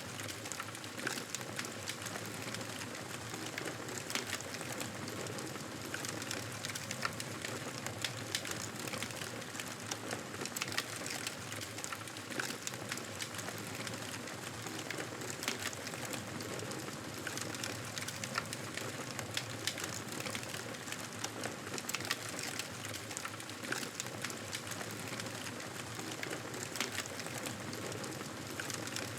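Fire burning with a steady hiss and frequent sharp crackles and pops.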